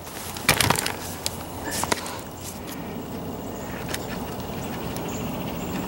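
Hand-digging in garden soil: rustling and scraping of dirt and vines, with a few short knocks as sweet potatoes are pulled out.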